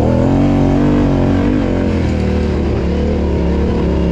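Yamaha Ténéré 700's parallel-twin engine revving: its pitch climbs right at the start, holds, then drops back about a second and a half in, over a steady low running note.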